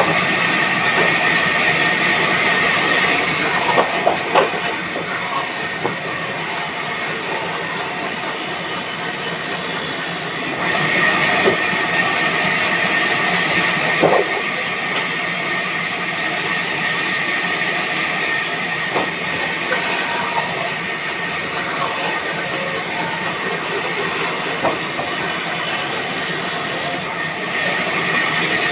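Band sawmill running: a loud, steady hissing noise with a faint high whine and a few light knocks, shifting slightly in tone a few times.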